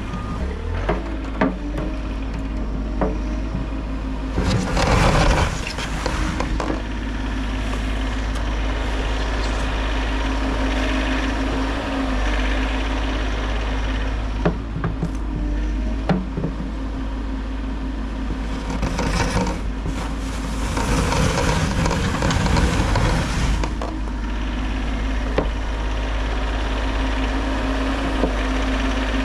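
Bobcat E50 compact excavator's diesel engine running steadily, with scattered clicks and knocks. Louder rushing, scraping noise comes twice, briefly a few seconds in and for several seconds past the middle.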